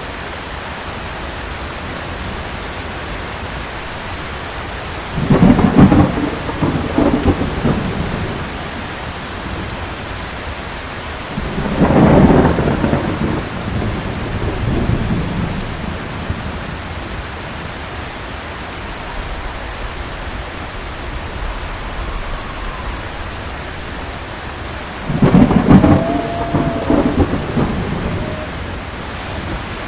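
Thunderstorm: heavy rain falling steadily, with three rolls of thunder rumbling up out of it, about five seconds in, about twelve seconds in and again near the end, each fading over a few seconds.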